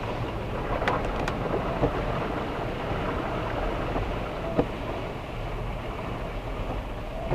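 Dashcam recording of a car driving in heavy rain: a steady low rumble of engine and road with a haze of rain noise, broken by a few sharp ticks about a second in, near two seconds, and once more past halfway.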